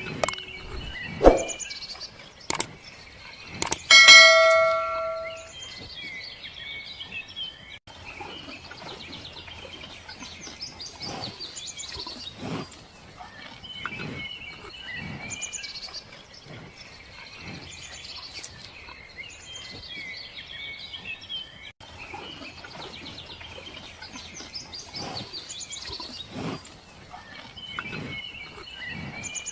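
Small birds chirping continuously, with a single bell-like ding that rings out about four seconds in.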